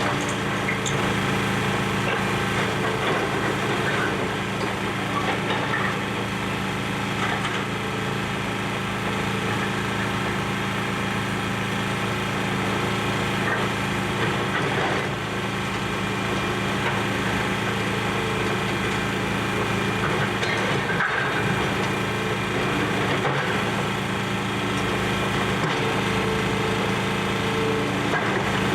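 Excavator's diesel engine running steadily, with scattered cracking and splintering of building debris being torn apart and crushed.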